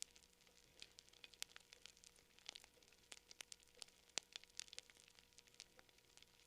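Campfire crackling: faint, irregular sharp pops and snaps of burning wood, several a second, with a slightly louder pop about four seconds in.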